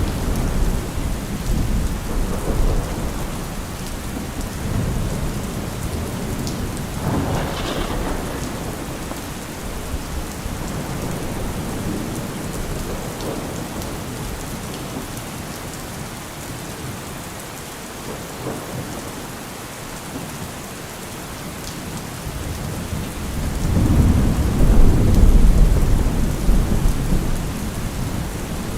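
Heavy rain falling steadily, with deep low rumbles that swell at the start and swell loudest near the end.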